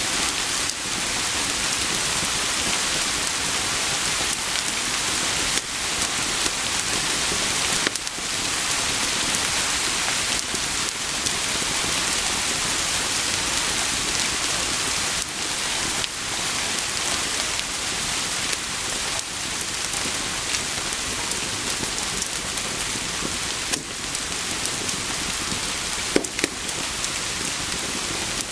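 Steady heavy rain, an even hiss throughout, with scattered small crackles and pops from a wood fire and one sharper pop near the end.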